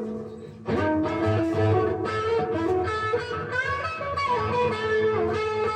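Guitar played in single notes and short phrases, with some notes bent in pitch. There is a short pause just under a second in before the playing picks up again.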